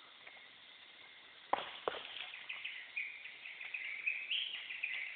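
Two sharp clicks, then birds chirping in quick high notes that step up and down in pitch for the rest of the time.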